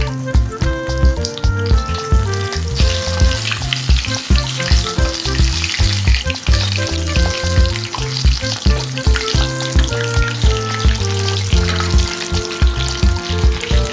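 Hot oil sizzling as food fries, starting a few seconds in, over background music with a steady beat.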